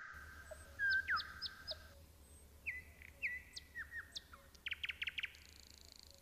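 A songbird singing: a whistled note that swoops down into a held tone, then short chirps and a quick trill about five seconds in.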